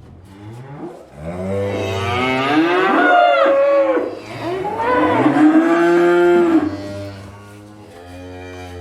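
A cow mooing: two long moos, one after the other, then a quieter, lower call near the end.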